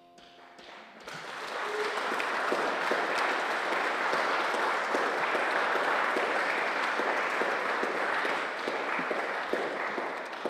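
Audience applauding at the end of a song. The clapping swells over the first second or two, holds steady, then dies away near the end.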